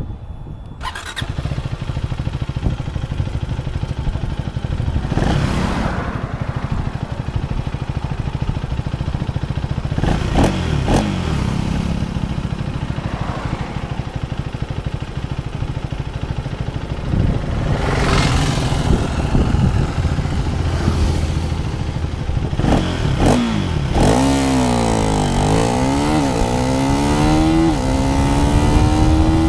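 KTM 390 Duke Gen3's single-cylinder engine running at low revs with a few brief throttle blips. About three-quarters of the way in the bike accelerates: the engine pitch drops and climbs again through gear changes, then rises steadily near the end.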